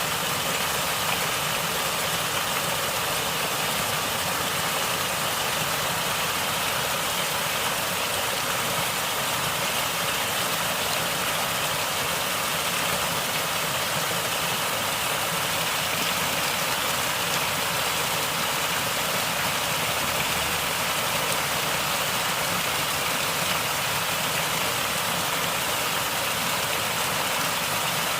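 Natural stream water gurgling and rushing in a steady, even stream of noise.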